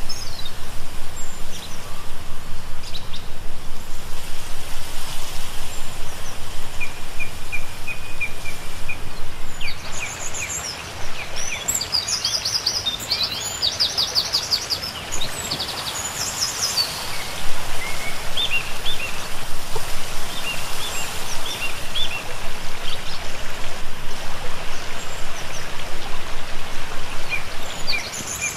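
Small songbirds chirping and calling over steady outdoor background noise. There is a busier spell of calls about a third of the way through.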